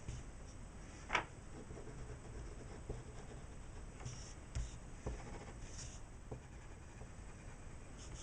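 Graphite pencil scratching on paper while shading, faint and irregular, with a few sharper ticks.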